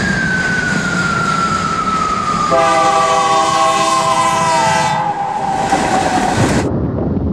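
Train passing with its horn sounding a chord for about two and a half seconds in the middle, over the steady rumble and clatter of the cars. A single tone glides steadily down in pitch through most of it, then stops near the end.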